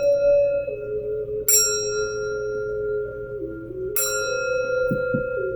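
A bell-like instrument is struck twice to clear energy, each strike ringing out with bright, lingering overtones. Beneath it a lower held tone steps up and down in pitch a few times.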